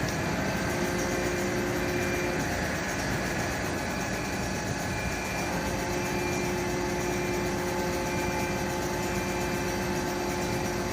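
Fire engine's motor idling steadily, with a few held tones that fade in and out over the run of it.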